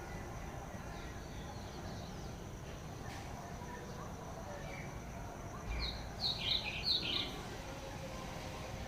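Wild birds calling over a steady background hiss, with a quick run of short, high chirps from about six to seven seconds in.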